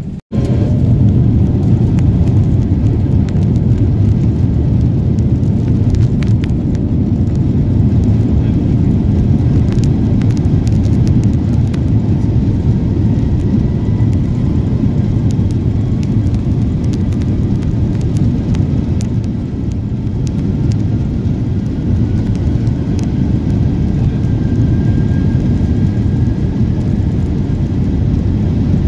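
Cabin noise of an Airbus A350-900 on its takeoff run: a loud, steady rumble from the Rolls-Royce Trent XWB engines and the runway, with cabin rattles. A faint engine whine rises slowly in pitch in the second half.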